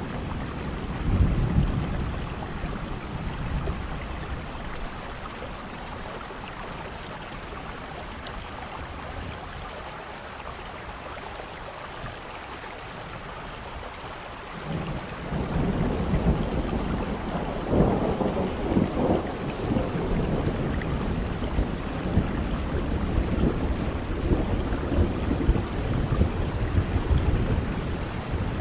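Steady rain falling, with thunder rumbling low underneath. The rumbling fades in the middle and swells again about halfway through, at its loudest a few seconds later.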